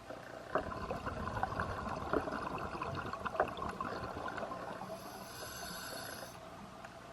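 Scuba diver's regulator breathing: a crackling burst of exhaled bubbles for about four seconds, then a short hissing inhale through the regulator.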